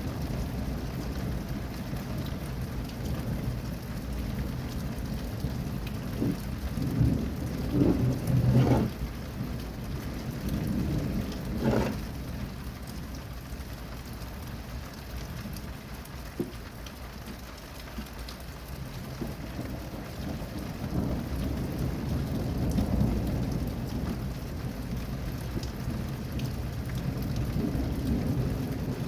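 Steady rain falling, with rolling thunder rumbling low underneath. The thunder swells loudest about seven to nine seconds in and rolls up again in the second half.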